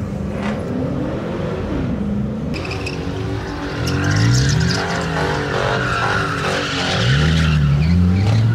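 A car spinning donuts, its tyres screeching throughout. The engine revs hard in rising surges about four seconds in and again near the end.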